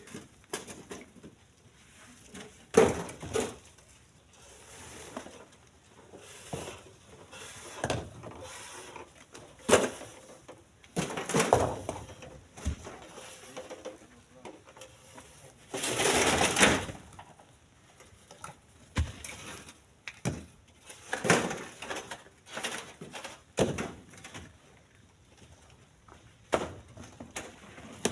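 Split stones being thrown into a truck's bed: irregular knocks and clatters of rock on rock, a second or a few seconds apart, with a longer rattling clatter about 16 seconds in.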